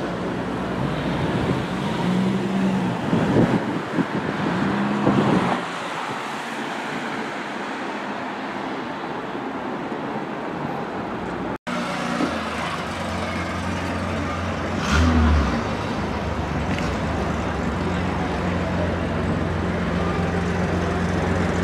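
Jaguar F-Type convertible's engine revving in two short rises and falls as the car drives off, then fading. After a cut, a steady low engine drone of passing traffic, with one short loud thump in the middle of it.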